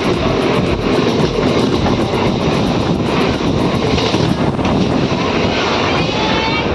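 Local train running, a loud steady rumble and rattle.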